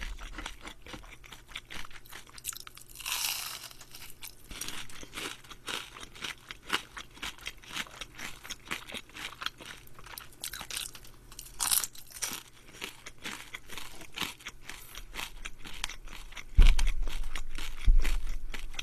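Close-miked crunching and chewing of crispy battered fried shrimp, a steady run of sharp crackles with a louder crunchy stretch about three seconds in. Two heavy low thumps come near the end.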